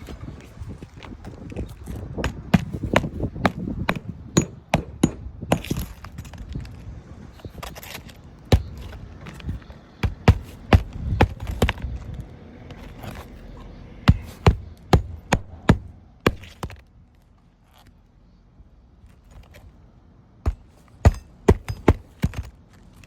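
Irregular sharp knocks and clatter of hands-on repair work, some in quick runs of three to five, over low scraping and handling noise, with a quieter pause of a few seconds past the middle.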